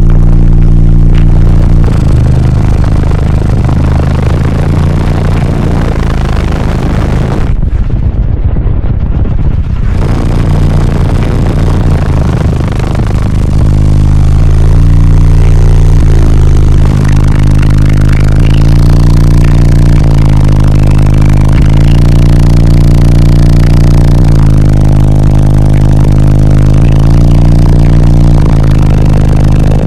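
Car-audio bass demo: six 12-inch subwoofers in a fourth-order bandpass box play a bass-heavy track at extreme volume, heard from inside the vehicle as deep stepping bass notes with an overdriven, rattling edge. About eight seconds in the upper sounds drop away for a couple of seconds, and from about thirteen seconds the bass comes back fuller and louder.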